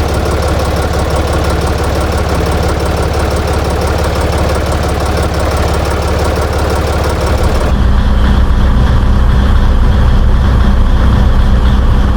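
Ditch Witch 5010's three-cylinder air-cooled Deutz diesel running steadily at idle. About seven and a half seconds in, the sound becomes deeper and heavier and loses its higher tones.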